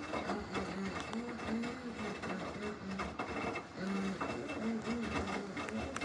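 Samsung washing machine running its normal wash cycle: a motor whir that rises and falls in short arcs of pitch, with irregular clicks and knocks from the drum.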